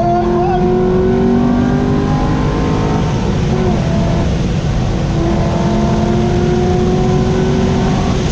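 Corvette C6 Z06's 7.0-litre LS7 V8 pulling hard on track. The engine note climbs steadily, falls back lower about three seconds in, then climbs again.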